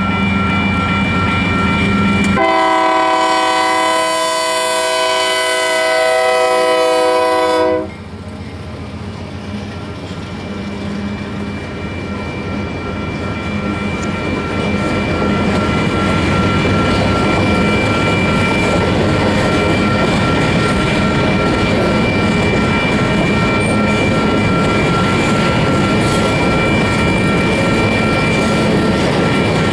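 GE C44AC diesel locomotive passing under power and sounding its air horn in one long chord of about five seconds that cuts off sharply. Then a string of covered grain hopper cars rolls by with a steady rumble and clatter of wheels on rail that grows louder. A grade-crossing bell rings under it all as a steady high tone.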